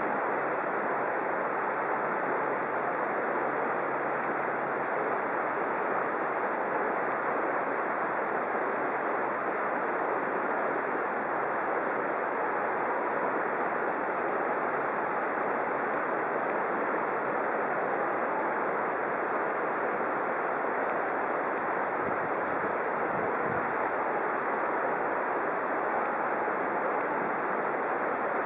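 Steady rushing of flowing water, an even noise that holds unchanged throughout.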